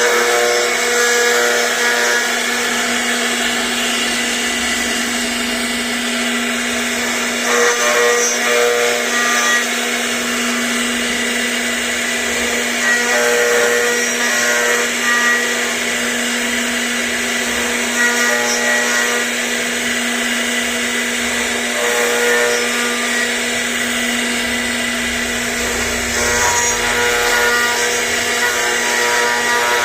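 CNC router spindle running with a steady whine while cutting, the cutting noise swelling every few seconds as the bit moves through the material.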